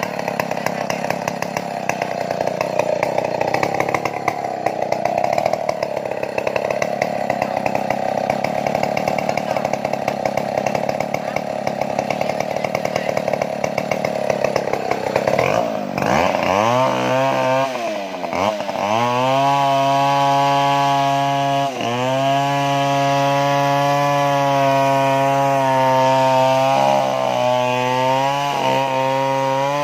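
Stihl chainsaw running hard while cutting a large tree trunk. About halfway through, its note drops sharply and comes back, then holds steady, dipping briefly a few times.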